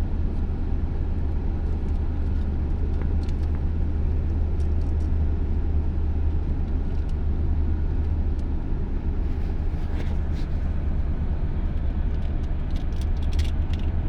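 Tata Hitachi excavator's diesel engine running steadily with a low drone, with a few light clicks about ten seconds in and again near the end.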